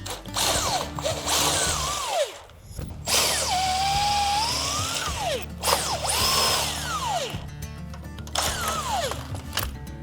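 Power drill-driver whining in about four short bursts, its pitch rising and falling as it spins up and slows, backing out the hex socket cap screws that hold a treadmill's rear roller guard.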